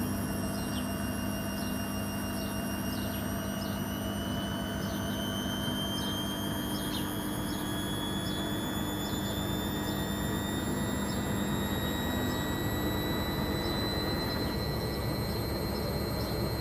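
Logik L612WM16 washing machine's motor whining steadily as it slowly gathers speed, the whine rising gradually in pitch over a low hum, with a faint short chirp about twice a second.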